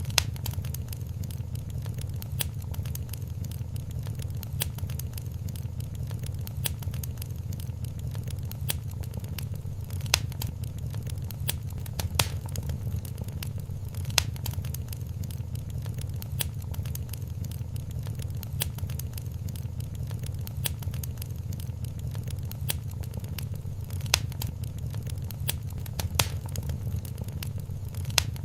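Wood fire in a fireplace crackling, with frequent sharp pops, a few louder than the rest, over a steady low rumble.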